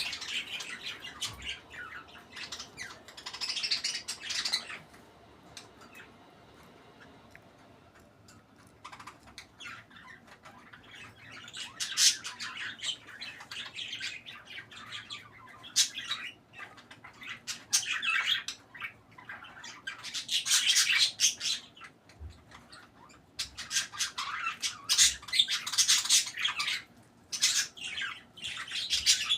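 Pet budgerigars chattering and squawking in repeated short bursts, with a lull of a few seconds after the first five seconds.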